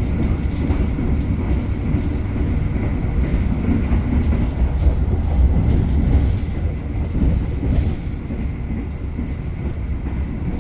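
KA Argo Bromo Anggrek passenger carriage running along the track, heard from on board: a steady low rumble of the wheels on the rails with faint scattered clicks.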